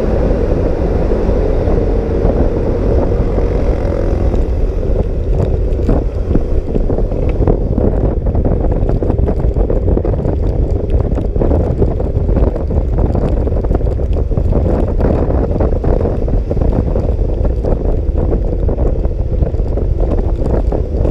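Heavy wind buffeting the microphone of a moving scooter in rain, with the scooter's engine running underneath. Scattered crackles run through it from about six seconds in.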